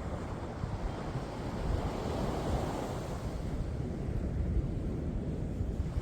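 Ocean waves: continuous surf with a wave swelling and washing through about two to three seconds in, over a constant low rumble.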